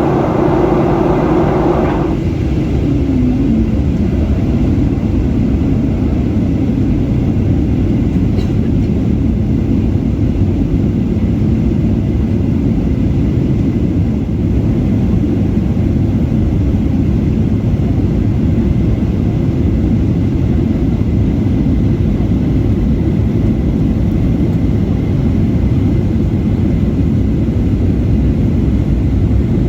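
Steady rumble of airflow and engines inside the cabin of a Boeing 737 airliner on its descent. A higher hiss drops away about two seconds in.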